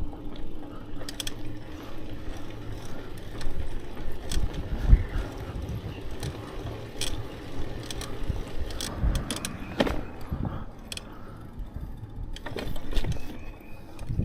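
Bicycle on the move: clicking and rattling from the drivetrain and freewheel ratchet, with scattered sharp clicks over a low, uneven rumble.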